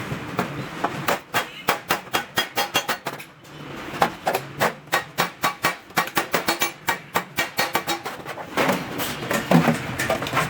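Hammer blows on stainless steel sheet, a fast even series of sharp strikes, about three or four a second, with a short break about three and a half seconds in.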